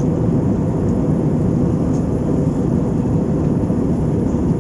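Steady low roar inside a jet airliner's cabin in flight: engine and airflow noise.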